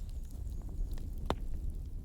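Wood fire crackling in a fireplace: a steady low rumble with scattered small pops and one sharper snap about a second in.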